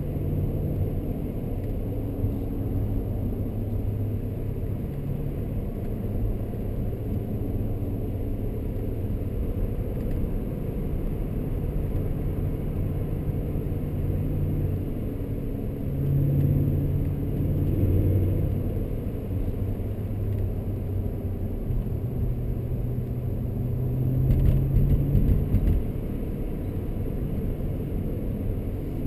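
2003 BMW E39 M5's 4.9-litre V8 running under way, heard from inside the cabin over low road rumble. The engine note shifts with the throttle and swells louder twice, once in the middle and once near the end.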